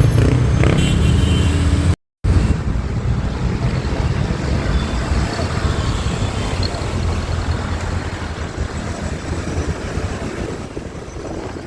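Riding a motorcycle in city traffic: steady low road and engine rumble with wind rushing on the microphone and the noise of surrounding traffic. The sound cuts out completely for a moment about two seconds in.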